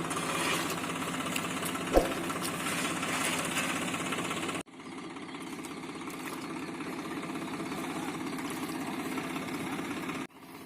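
Diesel tractor engine running with a steady knocking clatter. A short sharp knock comes about two seconds in, and a little under halfway through the sound cuts abruptly to a quieter stretch of similar engine running.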